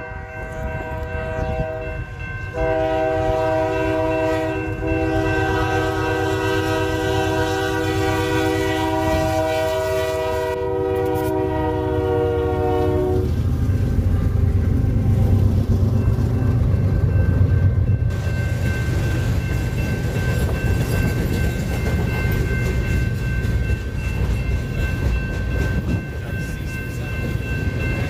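Freight train's multi-chime air horn sounding a short blast, then one long blast of about ten seconds as the train nears. The horn cuts off and the train's heavy low rumble takes over as it passes, with a thin steady high ringing tone underneath near the end.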